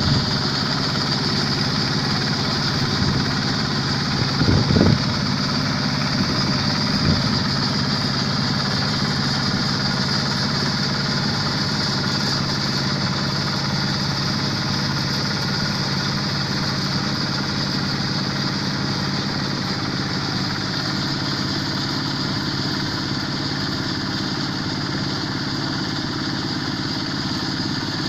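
Kubota diesel engine of a Quick H-140R combine harvester running steadily, with a couple of brief knocks about four and a half and seven seconds in.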